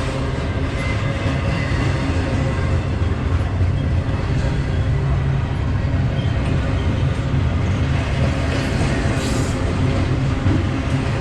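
BNSF freight train rolling past with a steady, loud rumble.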